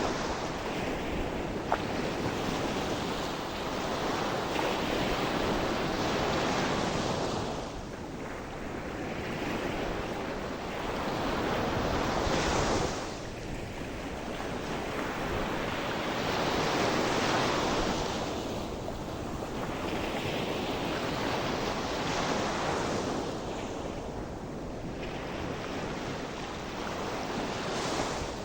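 Ocean surf: waves breaking and washing up the shore in slow surges every few seconds, with some wind on the microphone.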